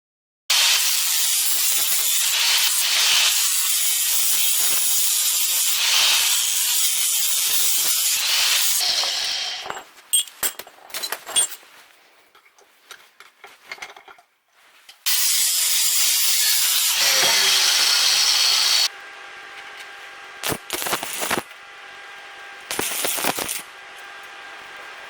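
Arc welding: the arc's steady hiss is struck abruptly and held for about eight seconds. Then come a few clicks and taps, and a second, shorter bead of about four seconds that cuts off suddenly. A quieter steady background with a few brief noises follows.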